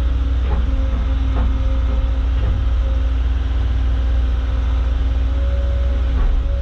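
Caterpillar excavator's diesel engine and hydraulics running steadily while loading rock, with a steady low rumble and hum. A few faint knocks come in the first second and a half.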